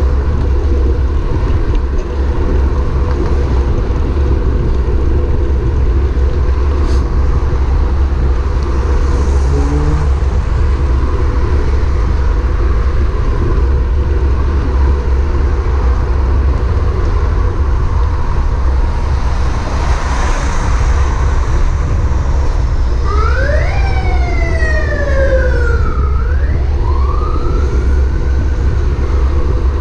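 Steady wind and road rumble on a moving bicycle's camera. About three-quarters of the way in, a siren wails up and down for about five seconds.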